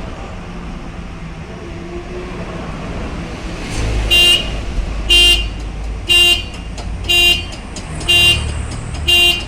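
Traffic noise, then six short, evenly spaced vehicle horn beeps about a second apart, starting about four seconds in.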